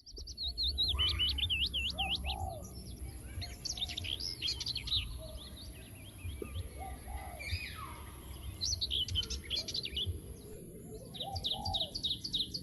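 Birds chirping and singing in short repeated bursts of high, quick notes, over a low steady rumble.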